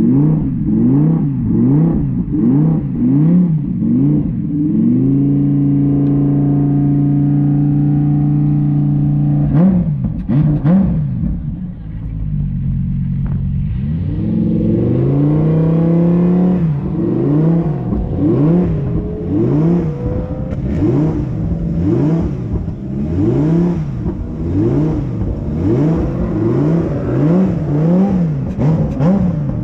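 A race car engine revving up and down over and over, about every half second. It holds steady revs for a few seconds about a third of the way in, then goes back to the rapid up-and-down revving.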